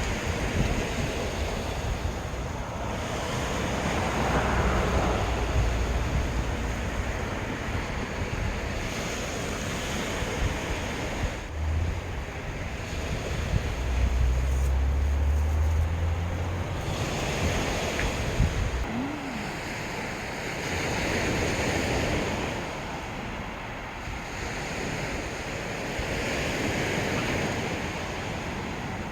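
Sea waves washing onto a beach, the surf swelling and easing every few seconds, with wind buffeting the microphone in gusts.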